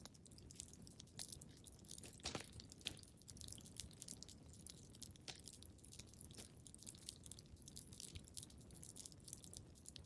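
Wood fire crackling in a fireplace: irregular snaps and pops over a low, steady rumble, with the loudest snaps a little over two seconds in.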